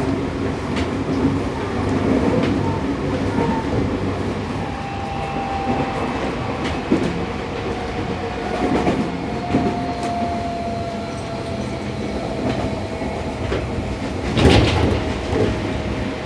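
Seibu 6000 series electric train (Toshiba IGBT VVVF) running, heard from inside a motor car: steady wheel and rail noise with clicks from the rail joints, and a thin motor whine that slowly falls in pitch. A louder clatter comes near the end.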